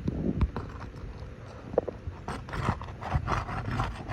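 Crowbar prying up an asphalt roof shingle: irregular scraping and rubbing of the bar against the shingles, with a few knocks, busiest in the second half.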